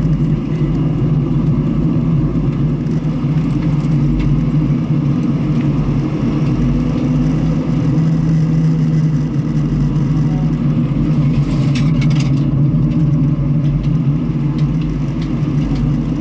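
A car running steadily, engine and road noise in a continuous low drone, with a few brief high crackles about three-quarters of the way through.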